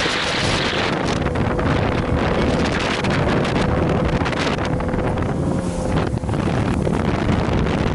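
Strong wind buffeting the microphone at sea over a boat's engine running steadily.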